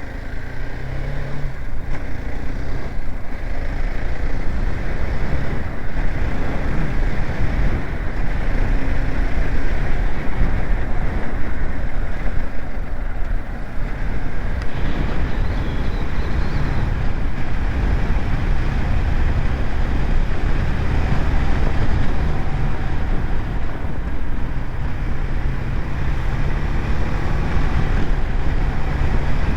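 BMW G 310 GS single-cylinder motorcycle under way on a highway: the engine runs under a heavy rush of wind and road noise. It pulls away and gets louder over the first few seconds, then holds a steady cruise with small changes in engine note.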